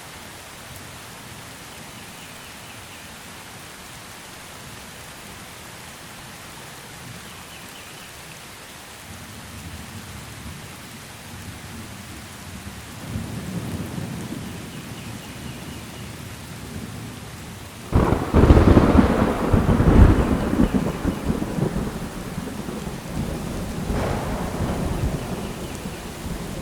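Steady rain with thunder: a low rumble builds from about a third of the way in, then a sudden loud thunderclap about two-thirds through rolls into heavy rumbling, with another peal near the end.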